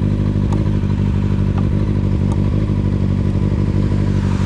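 Kawasaki ZX-6R's inline-four engine idling steadily, with a few faint ticks.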